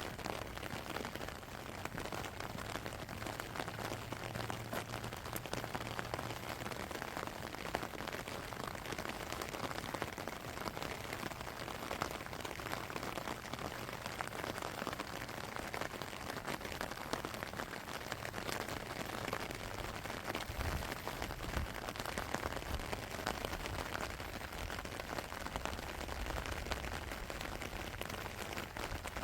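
Steady rainfall, with a constant hiss and many small ticks of individual drops striking surfaces.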